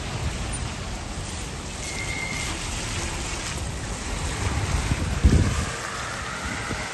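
Heavy rain falling, with wind buffeting the microphone and a louder low buffet about five seconds in.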